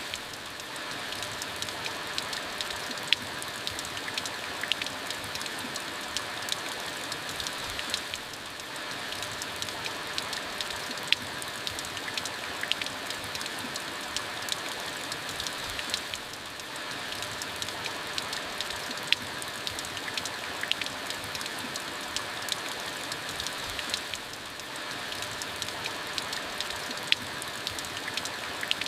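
Steady rain falling, with many sharp drips and drop impacts close by over an even hiss, and a slight lull about every eight seconds.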